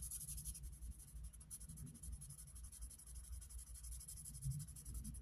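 Faint scratching of a pen writing or colouring in on a paper challenge card, soft repeated strokes over a low room hum.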